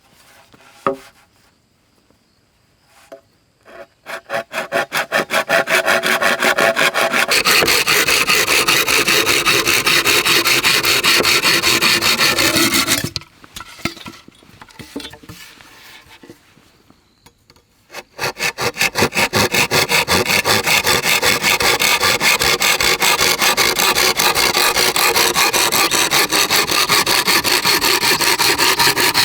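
A hand tool worked back and forth on wood in fast, even strokes, several a second, like sawing or rasping. It runs for about nine seconds, stops briefly after a few knocks, then starts again and keeps going steadily.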